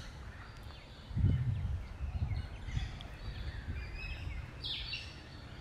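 Birds chirping and calling, many short high calls and glides, over a low uneven rumble with soft thuds, the strongest about a second in.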